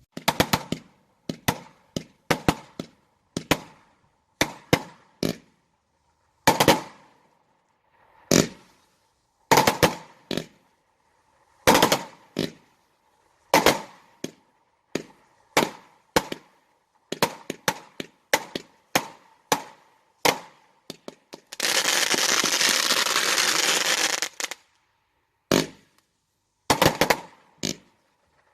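Consumer fireworks going off in a display: a string of sharp bangs at irregular spacing, about one a second, each with a short echoing tail. About two-thirds of the way through, a dense continuous crackling hiss runs for about three seconds before the bangs resume.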